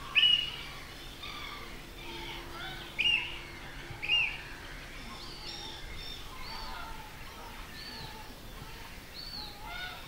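Many birds calling with short, overlapping chirps. Three louder calls stand out: one at the very start, one about three seconds in and one about four seconds in.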